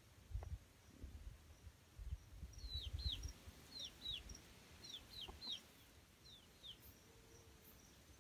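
A bird's short, high chirps, each falling in pitch, about ten of them from a few seconds in, some in quick pairs, over a faint low rumble.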